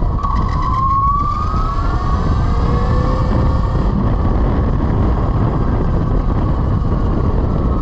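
Velimotors VMX12-F 12 kW electric motorcycle motor whining as the bike rides, the whine rising in pitch as it speeds up during the first second or so, over heavy wind noise on the microphone.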